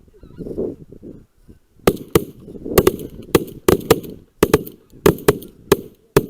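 Geese honking, then a rapid volley of about a dozen shotgun shots, too many and too close together for one gun, so several hunters are firing at once, with geese still calling between the shots.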